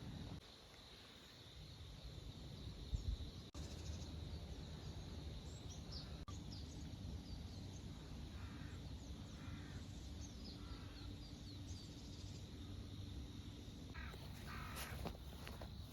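Outdoor ambience of wild birds: small birds chirping and a few harsher calls that sound like a crow cawing, over a steady low rumble. There is a soft thump about three seconds in and a few clicks near the end.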